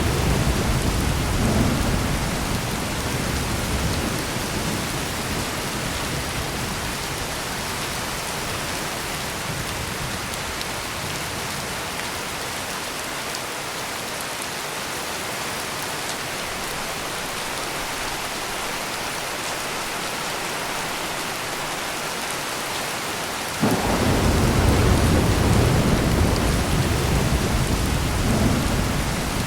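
Heavy rain pouring steadily in a thunderstorm. A roll of thunder dies away over the first few seconds. Late on, a sudden thunderclap breaks into a deep rumbling roll that lasts several seconds.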